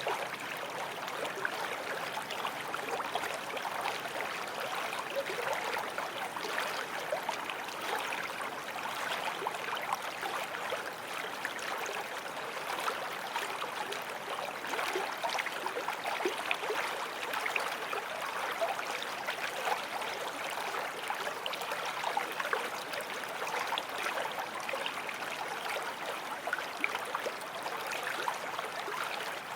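A forest stream flowing over rocks: a steady rush of water with fine splashing and gurgling.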